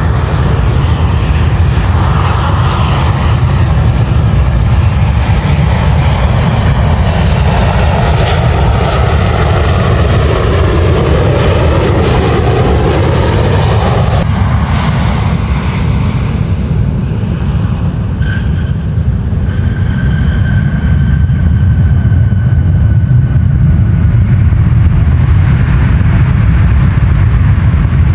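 Airliner engines running loud as the aircraft passes close by, with a heavy low rumble throughout and a noisy whoosh that falls in pitch in the first half. A steady high whine from the engines comes in during the second half.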